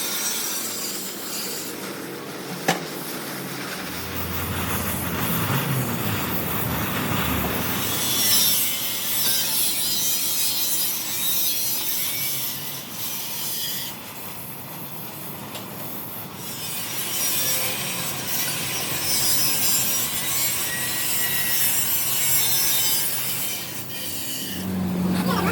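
Continuous harsh rasping and scraping of a tool working on metal, swelling and easing, with one sharp click about three seconds in.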